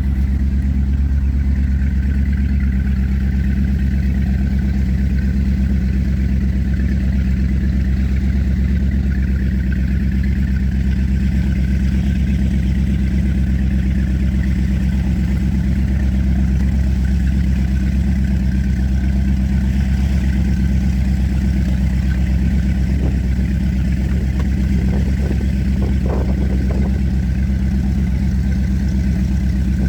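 Powerboat engine running steadily with a deep, even drone, with a few faint knocks near the end.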